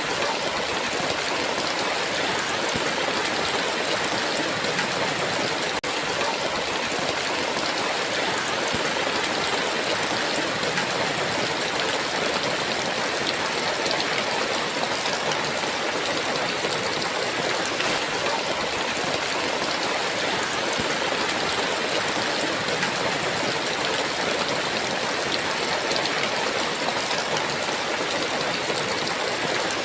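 Heavy rain falling steadily, a dense even hiss with no thunder, with a momentary drop in level about six seconds in.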